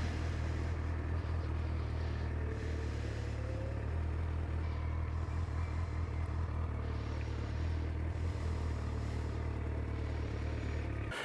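Honda CBF1000's inline-four engine running steadily at low speed, a low even drone that stops abruptly near the end.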